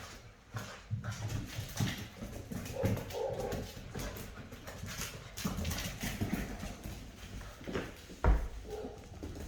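Rottweiler puppies playing: short whines and scuffling, with many small clicks and knocks and one heavy thump a little past eight seconds in.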